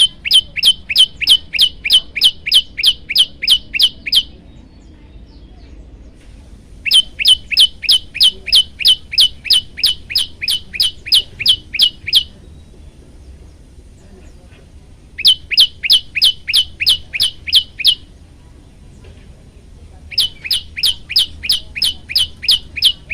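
Prenjak lumut singing: bouts of rapid, evenly repeated high chirps, about four a second, each note sliding downward in pitch. There are four bouts of roughly 3 to 5 seconds each, separated by pauses of 2 to 3 seconds.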